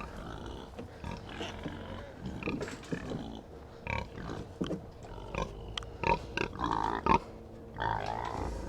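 Pigs grunting in short bursts, mixed with rustling and small knocks.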